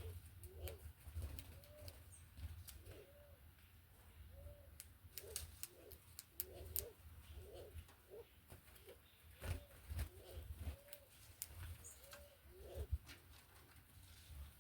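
Doves cooing softly and repeatedly, short low coos about once a second, with scattered sharp clicks.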